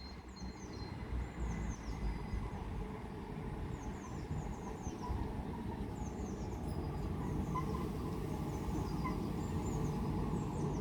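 Small birds chirping over and over in quick curved notes, over a low steady rumble from a Class 387 electric multiple unit standing at the platform. The rumble grows slightly louder toward the end.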